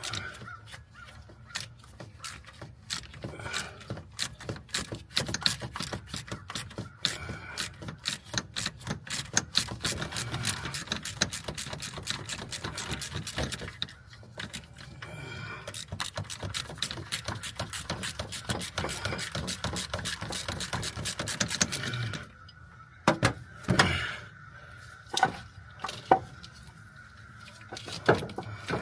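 Rapid clicking of a hand ratchet being worked in long runs, then a few separate clinks and knocks of metal tools after about 22 seconds.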